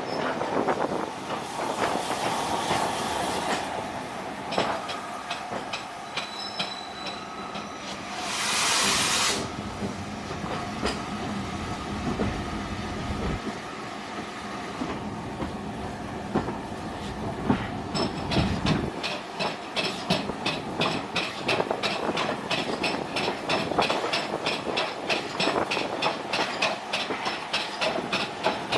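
Heritage steam train running on the rails. There is a short hiss about eight seconds in, and about two-thirds of the way through the wheels settle into a fast, even clickety-clack over the rail joints.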